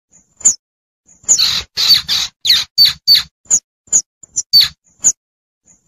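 Baby squirrel calling for its mother: a series of short, high-pitched squeaks, a few scattered at first and then coming quickly, two to three a second, from about a second in.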